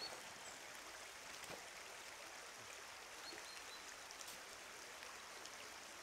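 Faint, steady rush of running water in a shallow woodland stream, with a few faint high chirps.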